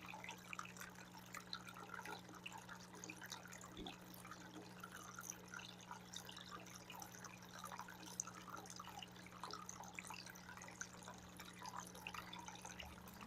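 Water fountain trickling and dripping in a dense, steady patter of small splashes, over a steady low hum.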